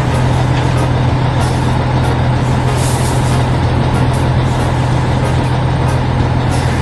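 Heavy farm machinery engine running steadily with a low hum, with a short hiss about three seconds in.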